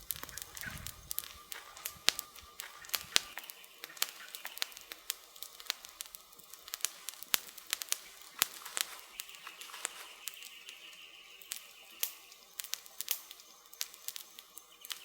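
Wood campfire crackling, with irregular sharp pops and snaps of burning firewood coming several times a second over a low hiss.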